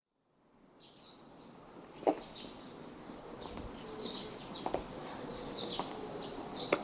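Outdoor ambience fading in, with small birds chirping over and over in short high calls against a steady background hiss. Two sharp knocks, about two seconds in and near the end, are the loudest moments.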